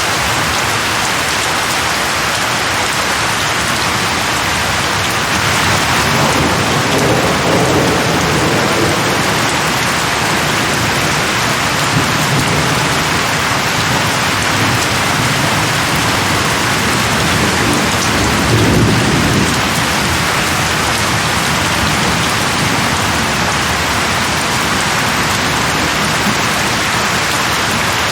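Steady, heavy rain falling, with rolls of distant thunder rumbling twice: once about six seconds in and more strongly around eighteen seconds.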